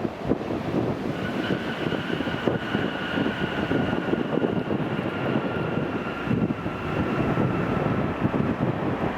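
Jet airliner engines rumbling, with a faint whine that falls slightly in pitch, and wind buffeting the microphone.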